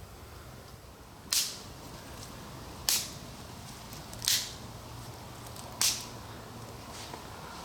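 Firewood being broken up: four sharp cracks, evenly spaced about a second and a half apart.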